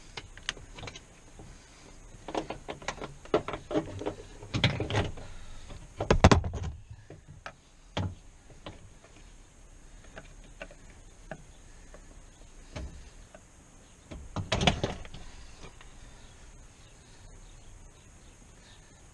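Clicks, taps and knocks of hand work on a car door panel, coming in clusters, with a loud thump about six seconds in and another burst of knocks near fifteen seconds.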